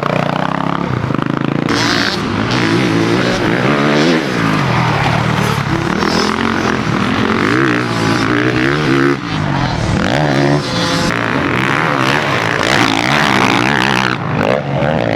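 2021 Honda CRF450RX's 450 cc single-cylinder four-stroke engine being ridden hard on a motocross track, revving up and falling back over and over as the rider opens and closes the throttle and shifts.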